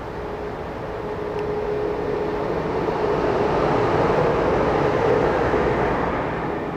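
Amtrak HHP-8 electric locomotive running past close along the platform at the head of a passenger train. A rushing rumble swells to its loudest about four to five seconds in and then eases, with a steady whine that fades out about two and a half seconds in.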